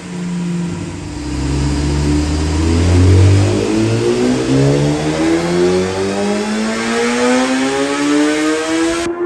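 Kawasaki ZX-10R inline-four engine breathing through a LeoVince SBK silencer. After a heavy low rumble in the first few seconds, it pulls up through the rev range, its pitch climbing steadily for several seconds. The sound changes abruptly just before the end.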